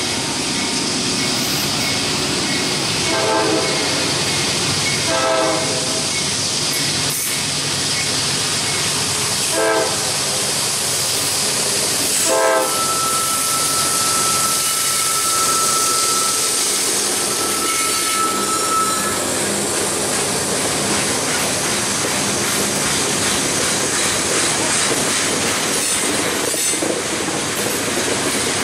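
A CSX freight train led by two GE AC4400CW diesel locomotives sounds four short horn blasts as it approaches, then rolls past with a steady rumble and clickety-clack of freight cars. A steady high-pitched squeal runs for several seconds in the middle.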